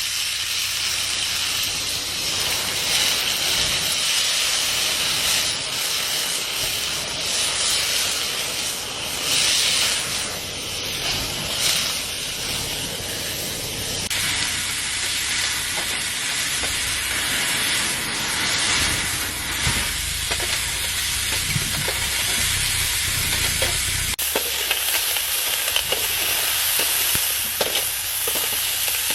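Food frying, a steady sizzle and hiss that changes abruptly twice.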